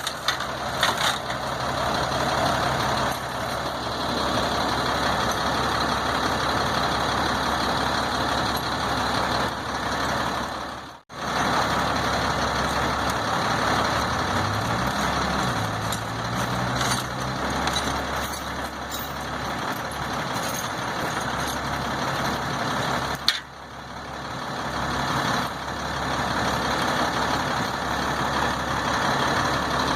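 Heavy diesel engine running steadily, its pitch rising briefly about halfway through. The sound drops out abruptly twice, about eleven seconds in and again at about twenty-three seconds.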